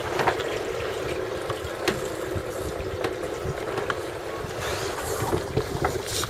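Water washing and splashing along a sailing boat's hull as it moves, with wind rumbling on the microphone and a few light knocks.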